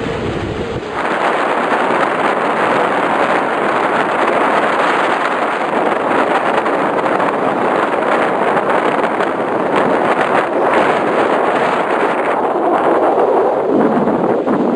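Strong wind and sea making a loud, steady rushing hiss that fills in about a second in.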